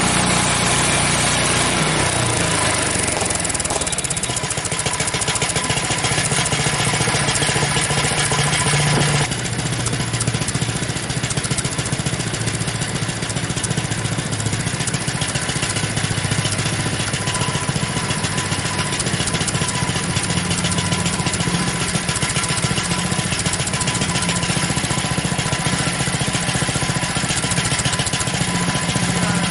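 Frontier OS23 portable bandsaw sawmill running, its gas engine driving the blade through a log to square it into a cant. The sound is steady and loud, shifting about two seconds in and dropping slightly about nine seconds in.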